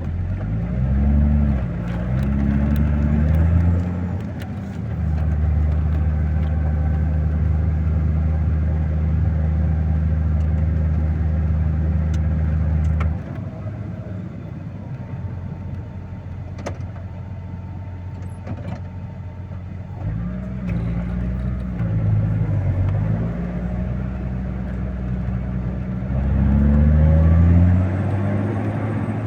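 Engine of a snow-clearing machine working a snowy road under load. Its revs rise and fall in the first few seconds, then hold steady and loud for about eight seconds, drop suddenly near the middle, and swing up and down again in the last third.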